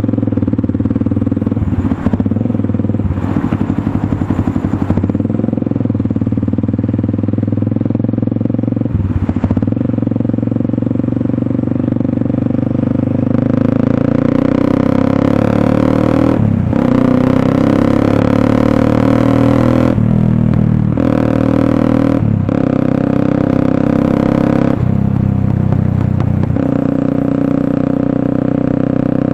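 Motorstar Cafe 400 single-cylinder engine running through an SC Project slip-on exhaust on stock headers. The engine note cuts off briefly several times in the second half.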